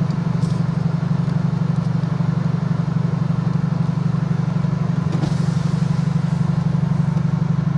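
Steady low drone of a vehicle's engine running, heard from inside the car.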